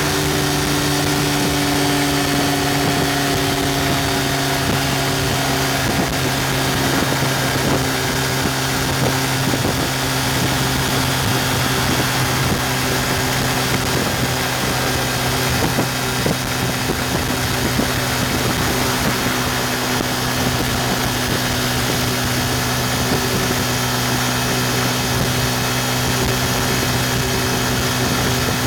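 Yamaha FZ150i's 150 cc single-cylinder engine running steadily at high revs, around 8,000 rpm, at highway speed, with heavy wind noise on the microphone. The engine note eases slightly in pitch over the first few seconds as the bike slows a little.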